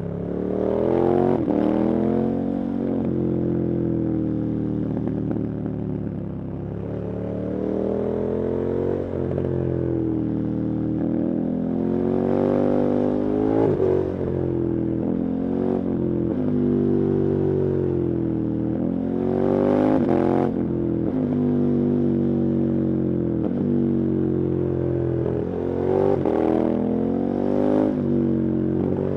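KTM 1290 Super Adventure's V-twin engine under hard riding, its pitch climbing and dropping again and again as the rider accelerates and backs off.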